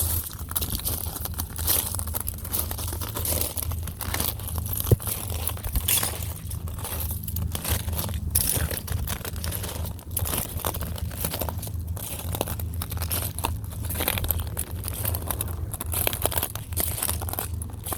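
Footsteps crunching over beach shells, an irregular run of crunches and crackles, with one sharper snap about five seconds in.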